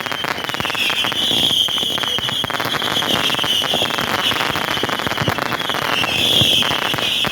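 Fireworks crackling densely and rapidly, a continuous barrage of small pops, over a steady high-pitched whistling tone that wavers slightly in pitch.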